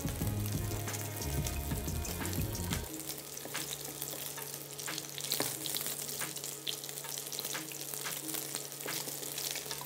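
Fish dumplings sizzling and crackling as they fry in hot mustard oil in a pan, with a wooden spatula stirring and lifting them.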